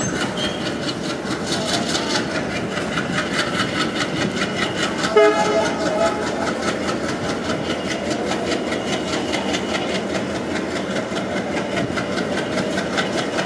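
Diesel-hauled passenger coaches rolling slowly past, wheels clicking rapidly and steadily over the rail joints. About five seconds in, a short train horn blast sounds.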